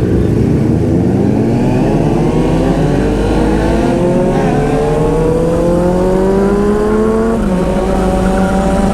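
Honda CBR500R parallel-twin motorcycle engine under steady acceleration in one gear, its pitch climbing for about seven seconds, then dropping near the end as the throttle eases or the rider shifts up, with wind rush over the helmet.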